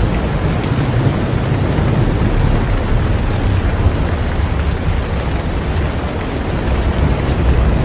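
Heavy rain falling on a boat: a steady, dense rushing hiss with a strong low rumble underneath, unchanging throughout.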